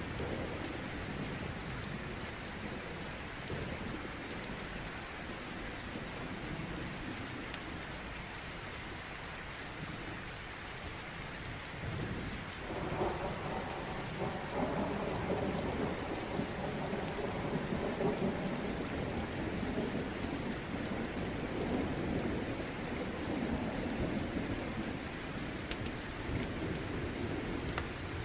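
Steady heavy rain falling, with low thunder rumbling under it that swells about halfway through.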